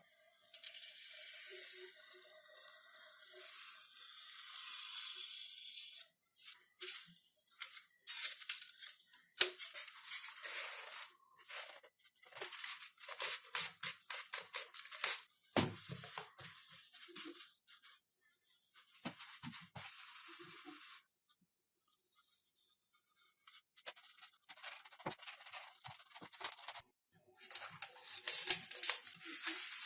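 Hand work on XPS foam airframe parts: irregular bursts of tearing and scraping with sharp clicks, stopping for a couple of seconds about two-thirds of the way in and starting again.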